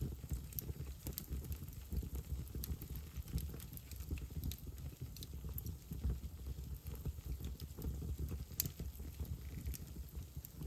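Wood fire burning in a fireplace: a low steady rumble of flames with scattered sharp crackles and pops, one louder pop about eight and a half seconds in.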